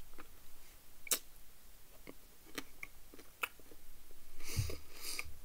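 Person chewing a mouthful of Toblerone chocolate, with scattered sharp mouth clicks and crunches. Near the end comes a louder rustle with a low thump.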